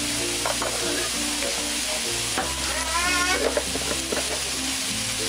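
Sliced potatoes and onions sizzling steadily in hot oil in a nonstick frying pan.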